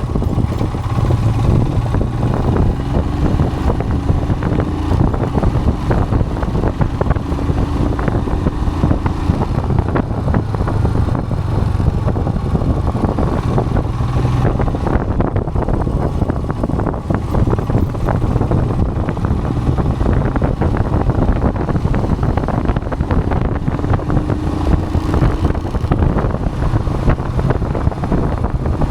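Royal Enfield Himalayan's single-cylinder engine running steadily while riding, mixed with wind rush on the microphone.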